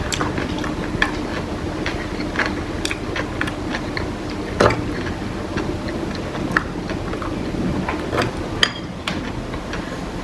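Eating sounds: irregular small clicks and ticks of chewing kimbap and kimchi and of utensils handling the food, over a steady low hum.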